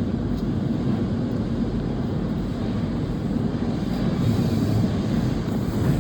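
Steady low vehicle rumble with an even noise haze, heard from inside a car.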